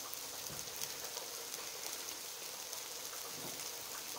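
Beef and bacon patties sizzling in a non-stick electric frypan: a steady crackling hiss.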